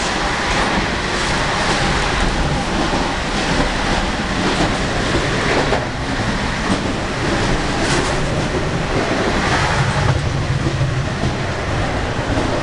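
Passenger sleeper train running, heard from inside the carriage: a steady rumble and rattle with a few scattered knocks.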